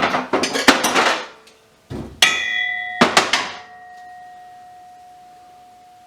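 Loose scrap metal parts rattling and clattering, then two hard metal-on-metal strikes, about two and three seconds in. The second leaves one clear ringing tone that fades slowly.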